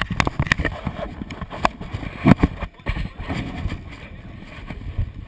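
Wind buffeting the microphone as an uneven low rumble, with scattered knocks and a louder thump a little over two seconds in.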